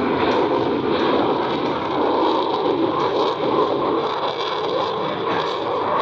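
Steady jet engine noise from Boeing F/A-18 Super Hornets in flight, holding level throughout without a clear rise or fall.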